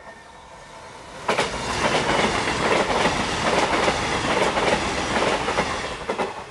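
A CrossCountry Class 221 Super Voyager diesel-electric multiple unit passing close by: a rising rumble, then a sudden loud rush about a second in as the front reaches the crossing. The rush continues with repeated sharp clicks from the wheels and drops away abruptly near the end.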